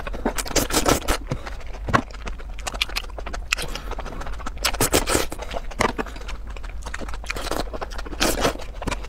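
Close-miked eating of oil-coated baby bok choy: wet crunching and chewing in quick, irregular crackles as the stalks are bitten and drawn into the mouth.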